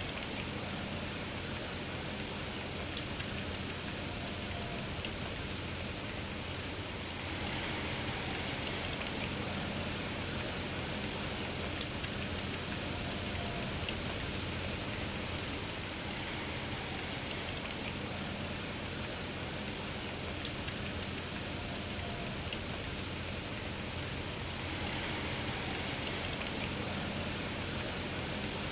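Steady rain falling. Three single sharp ticks of drops stand out, about 3, 12 and 20 seconds in.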